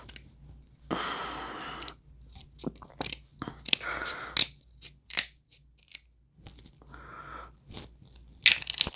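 Crab shells cracking and snapping by hand, mixed with close-up chewing of the crab meat. A loud cluster of sharp cracks comes near the end.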